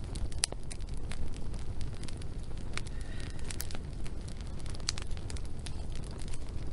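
Wood fire burning, with frequent irregular crackles and sharp pops over a steady low rumble.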